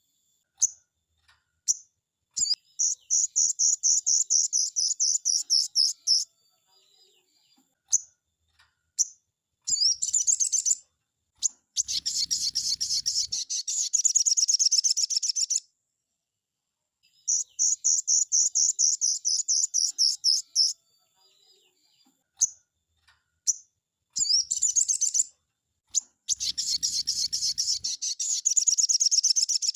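Crimson sunbird (sogon) singing its fast 'nembak' song: bursts of rapid, high-pitched trilled notes a few seconds long, broken by short pauses and single sharp chips. The same sequence repeats about halfway through, as in a looped tutor recording.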